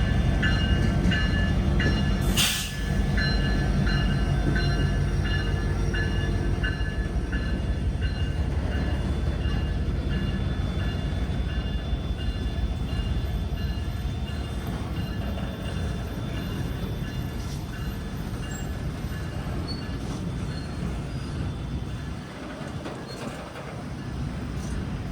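A train's cars rolling past on the rails, a steady heavy rumble with a fast rhythmic clatter and some faint wheel squeal. There is one sharp bang about two and a half seconds in, and the sound slowly fades as the train moves on.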